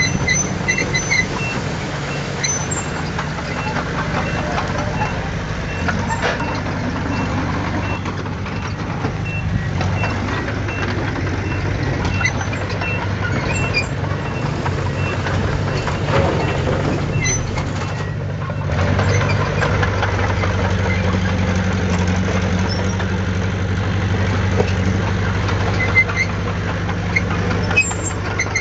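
Diesel engines of heavy earthmoving machinery running steadily, the engine note shifting about two-thirds of the way through. A reversing alarm beeps at an even pace through the first half and again later, with a few metallic clanks.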